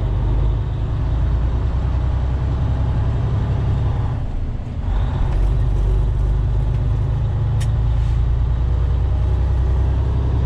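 Semi truck's diesel engine running hard, heard inside the cab, as the truck tries to pull away on snow with its drive wheels spinning. The engine eases off briefly about halfway through, then picks up again. A single sharp click comes near the three-quarter mark.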